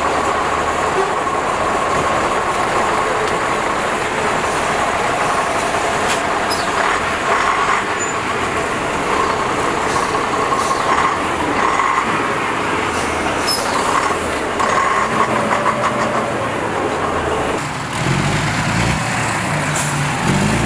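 Steady din of heavy truck engines running, with a low rumble coming in near the end.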